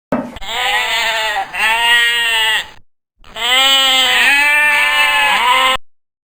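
Farm animal bleating, as of a sheep or goat: several long bleats with a quavering, wavering pitch. There is a short break about three seconds in.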